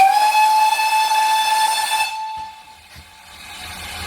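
Steam whistle of GWR Manor class 4-6-0 no. 7827 Lydham Manor giving one blast of about two seconds before departure. It slides up slightly in pitch as it opens, holds steady, then cuts off, leaving a fainter hiss.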